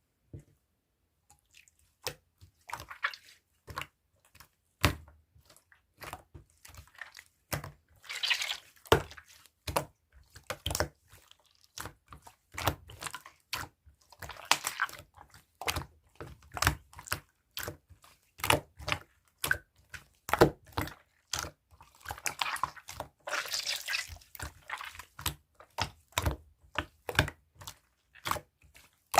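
Blue slime being pressed and worked by hand, making a string of sharp wet clicks and pops with a few longer crackly squishes.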